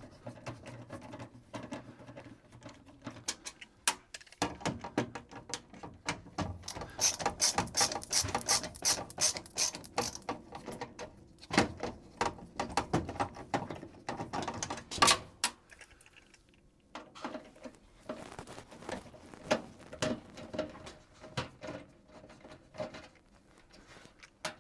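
Clicks, taps and metallic rattles of a sheet-metal access panel being worked loose and removed from a Carrier indoor HVAC unit. They come in dense clusters, busiest in the middle, with a short lull before the end.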